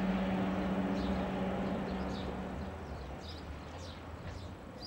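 Eurostar Class 373 electric train running away, its steady electric hum fading out over the first three seconds. Faint bird chirps come through as it dies away.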